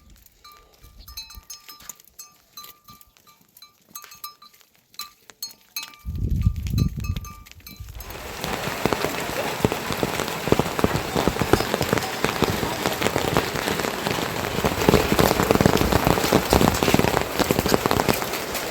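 Rain sets in hard about eight seconds in, a dense steady hiss of rain on surfaces. Before that there are only scattered light ticks, with a low rumble around six seconds.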